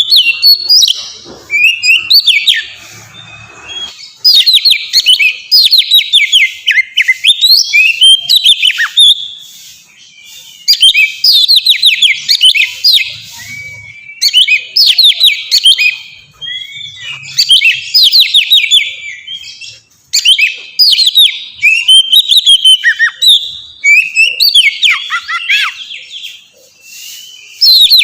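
Oriental magpie-robin (kacer) singing loudly and continuously: phrases of rapid, fast-falling whistled notes, each lasting a second or two, broken by short pauses.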